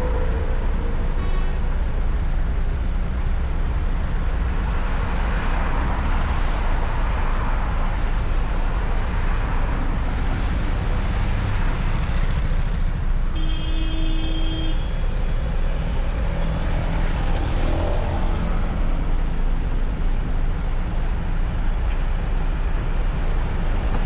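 Riding an electric motorcycle through city traffic: a steady low rumble of wind and road noise, with passing traffic around it and a brief high tone a little past halfway.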